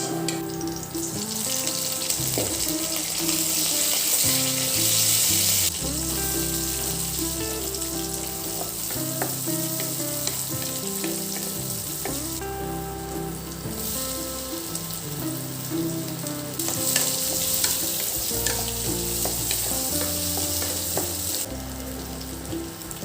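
Food frying and sizzling in a hot pan, the hiss coming and going in stretches of a few seconds, over soft background music.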